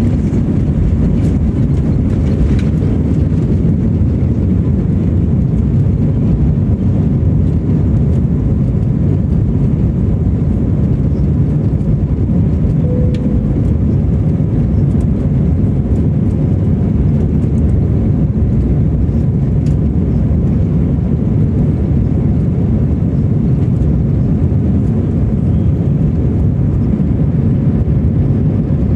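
Airbus airliner's jet engines: a loud, steady low rumble that holds the same level and pitch throughout.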